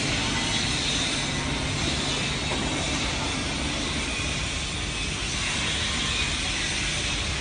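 Mobile LED stage truck's machinery running steadily: a low hum under an even hiss.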